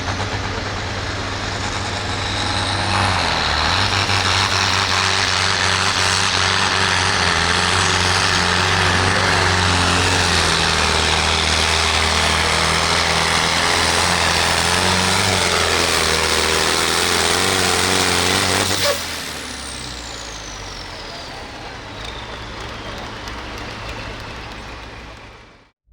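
Pro field pulling tractor's turbocharged diesel engine running flat out under load. About nineteen seconds in the engine cuts off suddenly, leaving a falling turbo whine as it winds down.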